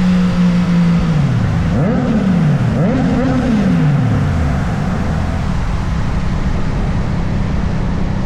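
Motorcycle engine running at a steady pitch, then winding down as the bike slows, its pitch jumping back up twice before falling away. A steady rushing noise runs under it and is all that is left near the end.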